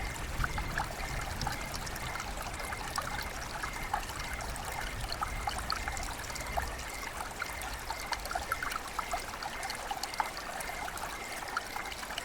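Running water trickling and splashing: many small drips and gurgles over a steady hiss.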